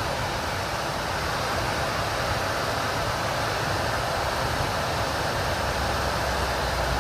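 Steady rushing air noise over the low rumble of a Cat C15 diesel idling in a Kenworth T800; the low rumble grows a little stronger near the end.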